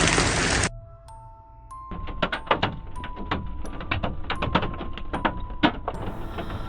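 Hailstones striking a hard surface: many irregular sharp knocks begin about two seconds in and go on, over a few steady held tones.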